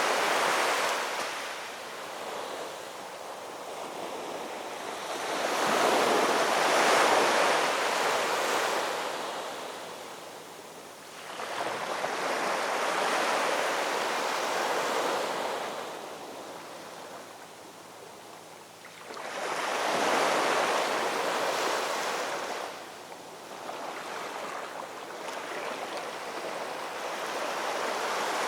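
Ocean surf: waves breaking in slow surges of hiss, one about every seven seconds, each swelling up and falling away.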